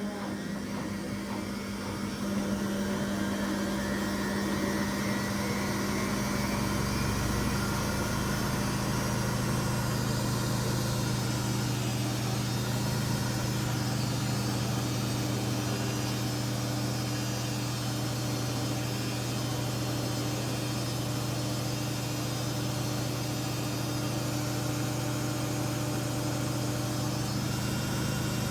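Samsung front-loading washing machine spinning at high speed, about 1000 RPM, a steady machine hum that builds about two seconds in and then holds. It is the spin noise that the owner of the 14-year-old washer puts down to worn drum bearings, heard when the load is unbalanced.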